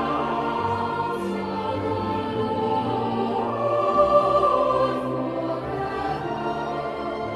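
Choral music: voices singing sustained, slowly moving chords, with instrumental accompaniment.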